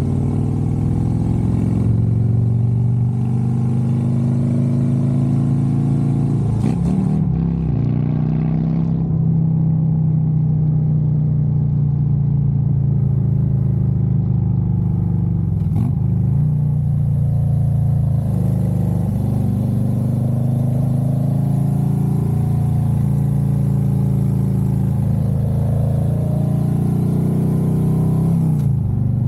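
Harley-Davidson Road Glide's V-twin engine running under way, its note broken briefly by gear shifts about 7 and 16 seconds in and again near the end.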